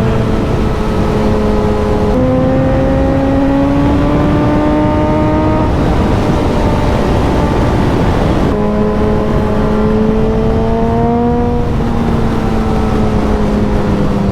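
Suzuki motorcycle engine pulling under way, its note climbing slowly and stepping in pitch at gear changes about two seconds in and again around eight and a half and twelve seconds, under heavy wind rush.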